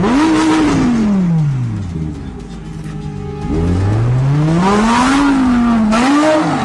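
A vehicle engine revving up and falling back twice. The first rise and fall lasts about two seconds; the second is longer, wavers at the top, and drops away near the end.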